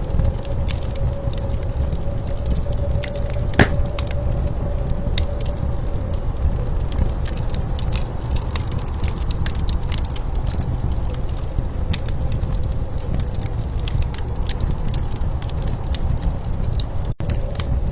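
Wood fire crackling, with many small sharp pops and one louder pop about three and a half seconds in, over a steady low rumble of blizzard wind.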